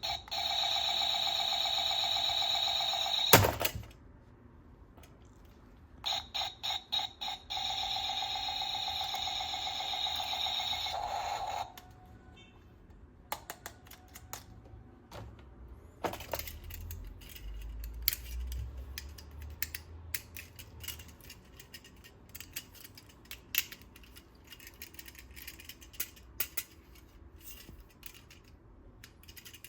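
Electronic sound effect from a battery-powered toy gun, heard twice: a quick run of pulses, then a loud steady electronic tone. The first ends with a sharp click. Then come many small plastic clicks and rattles from the toy being handled.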